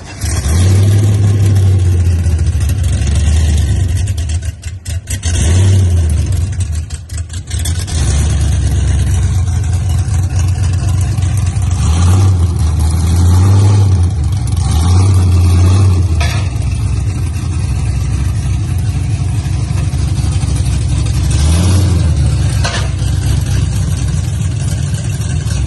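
Impala SS's swapped Gen 4 5.3 litre V8 running loud through an exhaust that still needs welding, a deep rumble that rises and falls a little in pitch.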